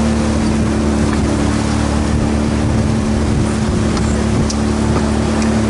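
Outboard motor of a motorized river raft running at a steady pitch, over a constant rush of water and wind.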